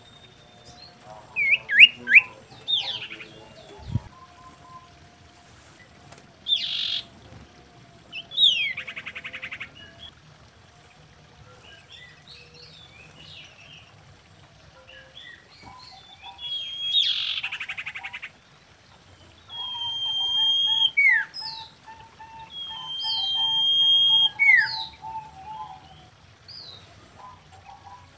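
Common iora calling: short sliding whistles, then buzzy trilled notes, then long drawn-out whistles, each ending in a quick falling note. A fainter, lower warbling runs beneath.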